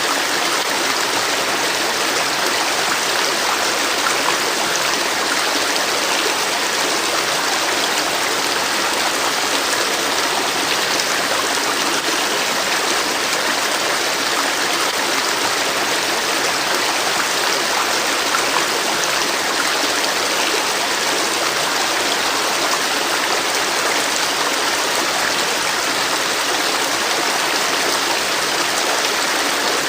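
A river flowing steadily over stones, a continuous even rush of water.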